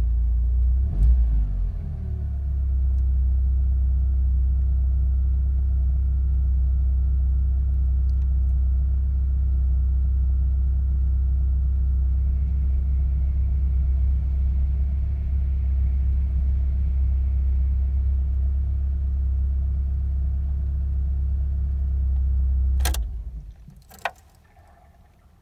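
Mitsubishi Starion engine idling steadily after a brief blip of the throttle near the start. It shuts off about 23 seconds in, followed by two sharp clicks.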